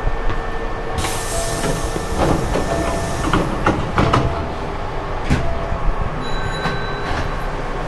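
Hankyu 5400-series train standing at the platform with its doors open: a steady hum with a faint whine, a burst of hissing about a second in that lasts over a second, and scattered knocks and clicks.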